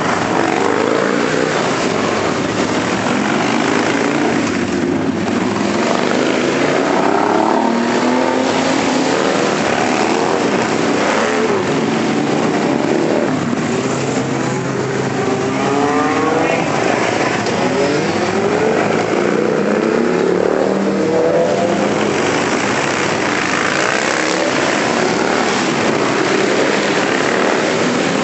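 A steady stream of motorcycles riding past, many engines overlapping, with repeated rising and falling pitch sweeps as bikes accelerate and go by.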